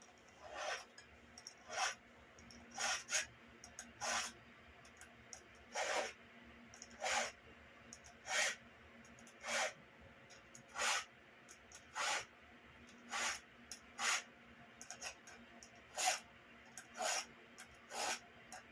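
Chainsaw file rasping across the cutters of a Stihl MS170 chain during hand sharpening, one short stroke about every second.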